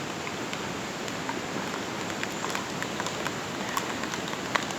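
Steady rushing of flowing water, with a few faint scattered clicks over it.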